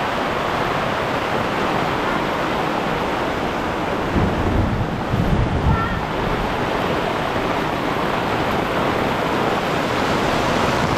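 Steady rushing noise of water, even and unbroken, with a few low bumps about four to six seconds in.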